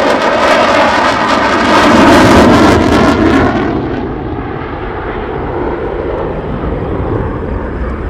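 F-16 fighter jet passing low and loud, its jet roar with a sweeping, shifting tone, loudest about two to three seconds in. The hiss then drops away and a lower rumble remains as it moves off.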